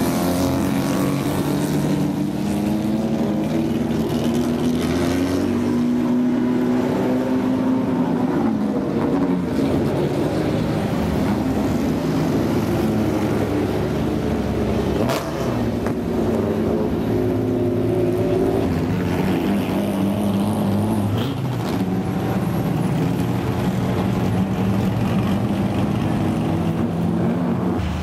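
A motor vehicle engine running steadily, its pitch wavering slightly.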